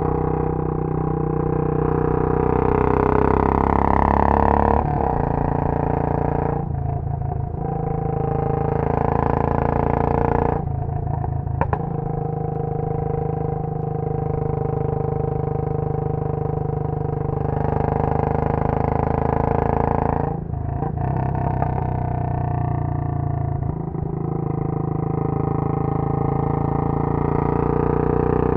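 Royal Enfield Bullet 500's single-cylinder engine through a Punjab long bottle silencer, ridden hard: the exhaust note rises in pitch as it accelerates, then dips briefly about four times as the throttle closes and picks up again.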